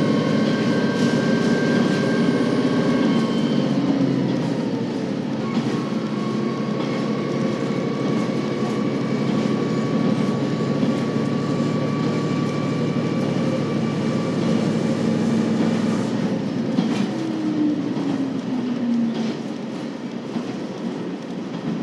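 KiHa 40 series diesel railcar running, heard from inside the car: a steady engine drone over wheel and rail noise. The engine note drops about four seconds in, and later it quietens with a falling tone.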